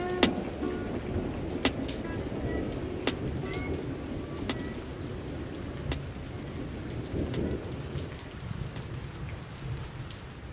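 Steady rain falling, with scattered sharp drips, gradually fading out.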